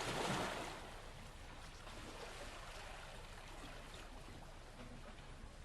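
A faint, steady rushing noise like flowing water, a little louder in the first second.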